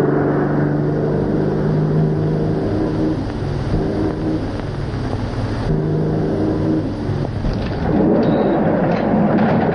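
Car engine running at speed: a steady low hum and rumble that grows rougher and noisier in the last two seconds.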